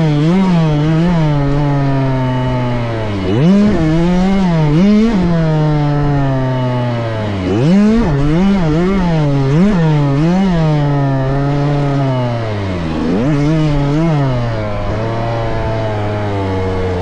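Small two-stroke motocross bike engine, a KTM 65, ridden hard around a track. Its pitch climbs in quick steps through the gears and falls away when the throttle is shut, then climbs again, several times over.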